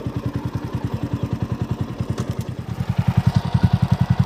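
TVS Apache RTR 200 4V's single-cylinder four-stroke engine idling in neutral with an even exhaust beat, getting louder about three seconds in. No chain or front sprocket noise is heard, now that a new chain and sprocket set is fitted.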